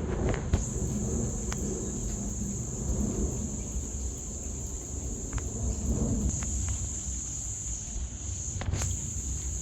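Insects chirring in a steady, unbroken high-pitched drone, over a low rumble and a few faint clicks.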